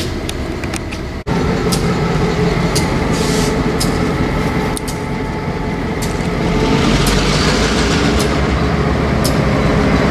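RJ Corman Dinner Train rolling past at close range: steady rumble of the train with irregular sharp clicks of wheels over rail joints, broken by a brief gap about a second in.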